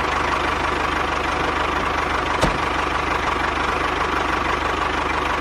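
Small motor of a home-made miniature tractor running steadily with a fast rattling buzz. There is a single click about two and a half seconds in.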